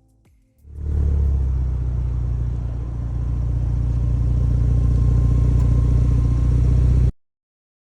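Ford Bronco's XForce VAREX exhaust running with a steady, deep low rumble. It starts about a second in and cuts off abruptly near the end.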